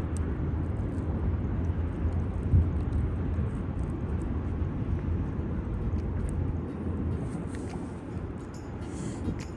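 Wind buffeting the microphone outdoors: a steady low rumble that eases slightly near the end.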